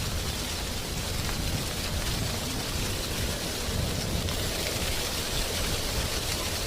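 Wind blowing through tree leaves, a steady rustling hiss without let-up.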